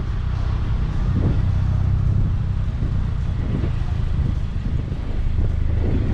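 Steady low rumble of a car in motion, with road noise.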